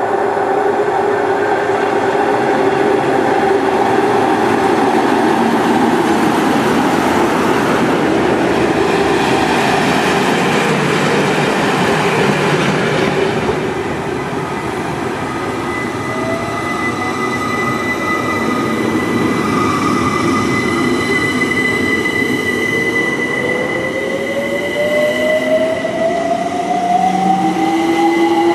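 A Network Rail test train, top-and-tailed by Class 73 electro-diesel locomotives, running through a station, its wheels loud and steady on the rails with a constant hum. About halfway it drops a little in level, and in the later part rising whines and squeals come in as the train moves slowly over pointwork.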